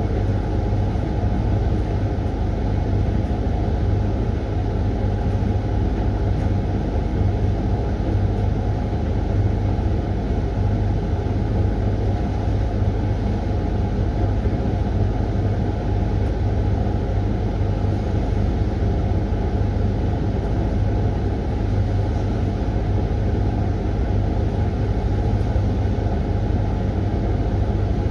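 Hoover tumble dryer running through the end of its 20-minute Refresh programme: a steady, unbroken machine drone with a strong low hum.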